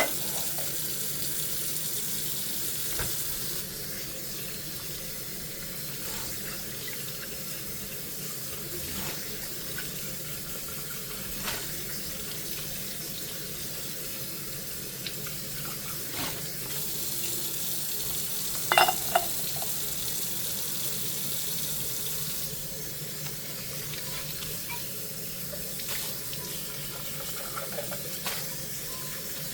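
Kitchen tap running into a sink during hand dishwashing, a steady hiss of water with scattered light knocks of dishes. About two-thirds of the way through comes a pair of sharp ringing clinks, the loudest sounds here.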